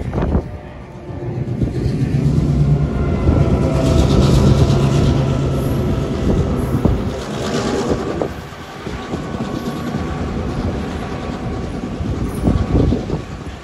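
Passenger train passing close by: a diesel locomotive's engine hums steadily as it goes, and the wheels clatter over the rails as the carriages follow, with surges of noise about four and seven seconds in.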